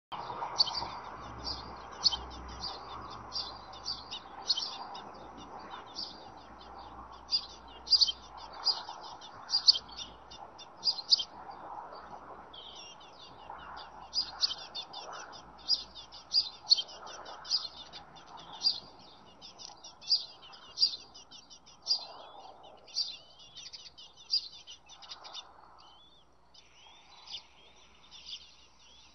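Birds chirping in quick runs of short, high, thin notes, almost without pause, thinning out over the last few seconds.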